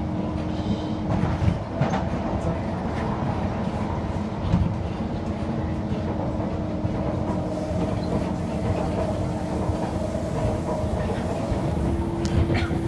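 Kawasaki Heavy Industries C151 metro train heard from inside the carriage while running: a steady rumble of wheels on track with an even motor hum and a few clicks from the rails. Near the end the hum's pitch steps slightly higher.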